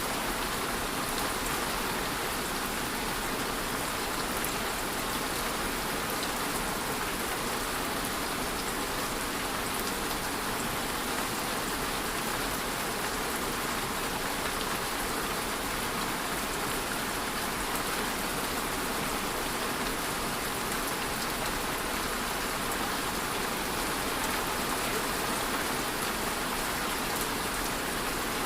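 Steady rain: an even hiss of falling rain with faint scattered drop patter, unchanging throughout.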